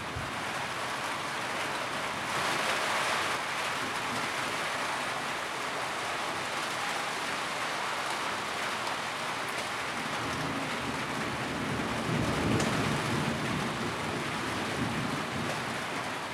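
Steady rain drumming on a tin roof, a dense even patter. The downpour swells briefly a couple of seconds in, and a low rumble rises from about ten seconds in.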